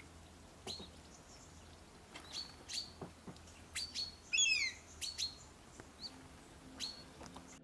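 Small woodland birds calling: short sharp chirps at irregular intervals, with a quick run of falling notes about four seconds in.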